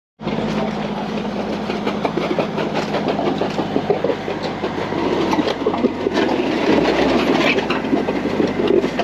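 A vehicle engine running with a steady hum under a loud, dense rattling clatter, as of a heavy machine moving over rough ground.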